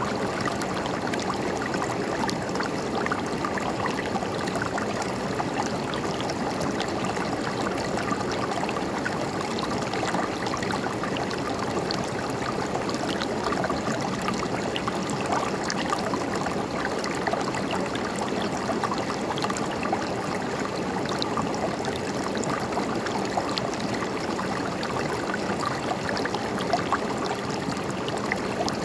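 A river flowing in a steady, even rush of gurgling water, with small splashes scattered all through it.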